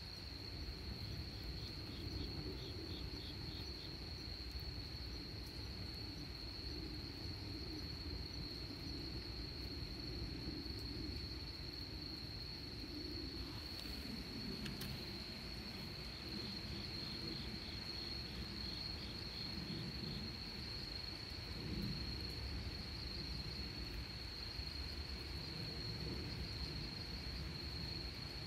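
Night insects calling: one cricket-like insect trills on a single steady high note without a break, while another chirps in quick runs of pulses just below it, twice. A steady low rumble lies underneath, with a couple of faint clicks about halfway through.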